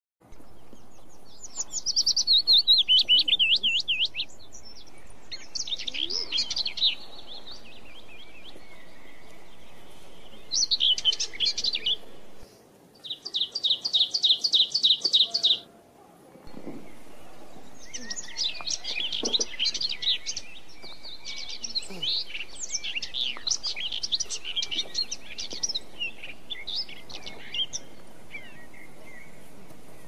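Birds singing: bursts of high-pitched chirps and rapid trills, one of them a fast string of repeated notes about halfway through, over a steady background hiss.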